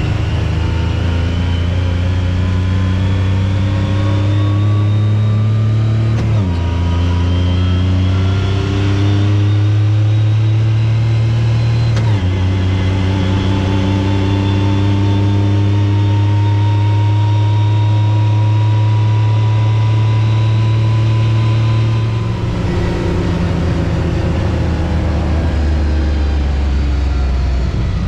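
Off-road vehicle engine pulling under acceleration, its pitch climbing and then dropping suddenly twice, about six and twelve seconds in, as it shifts up. It then holds a steady cruise and eases off near the end.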